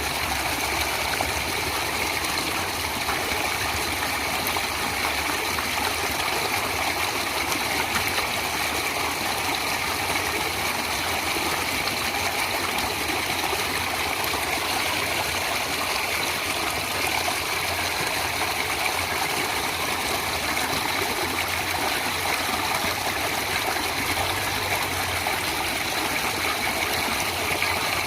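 Stream water flowing steadily, an even splashing and trickling with no break.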